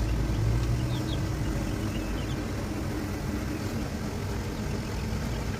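Electric fan and evaporative air cooler running with a steady hum, with a few faint chick peeps in the first couple of seconds.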